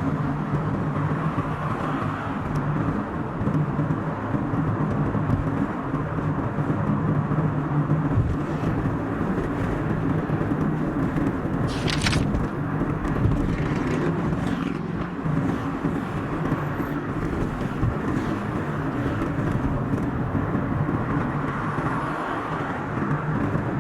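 Car driving on a highway, with steady engine and road noise, the recording sped up to double speed. A brief hiss comes about twelve seconds in.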